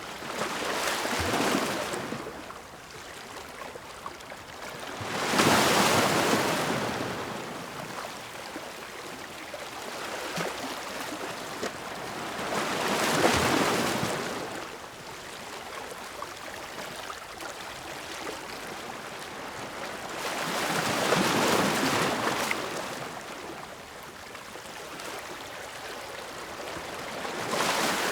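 Ocean waves breaking and washing ashore, one surge about every seven to eight seconds. Each surge swells up into a loud rush of surf and then fades back to a softer steady wash between breakers.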